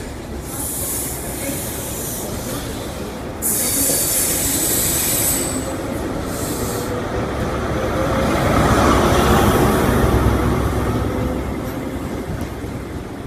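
LNER High Speed Train pulling out slowly, its coaches rolling past on the rails. About three and a half seconds in, a high-pitched wheel squeal and hiss starts suddenly and lasts about two seconds. From about eight seconds in, the diesel rear power car passes and the sound swells into its loudest rumble, then fades as the train draws away.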